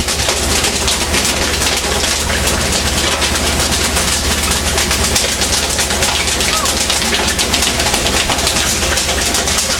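Fishing boat's engine running steadily, with a low hum and a fast, even rattle under loud rushing noise.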